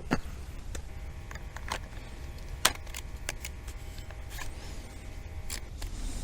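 Irregular clicks and light knocks of camera gear being handled and set up, the sharpest about two and a half seconds in, over a faint steady hum.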